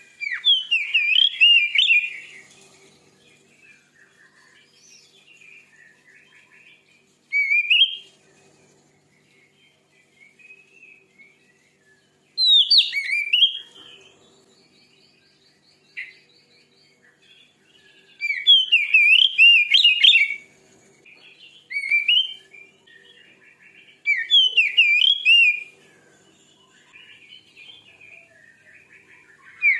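Oriental magpie-robin (kacer) singing a fierce, fast warbling song in loud phrases of about two seconds, six of them, with softer twittering between. It is the kind of challenging song used to provoke another male kacer.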